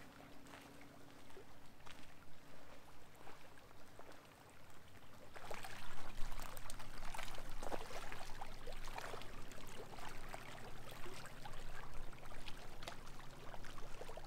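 Lake water lapping and trickling at the shoreline, with irregular small splashes and clicks, getting louder about five seconds in.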